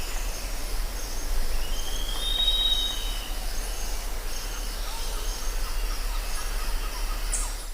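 Jungle ambience: a steady chorus of high-pitched insects, with one drawn-out whistled bird call that rises and then holds, about two seconds in.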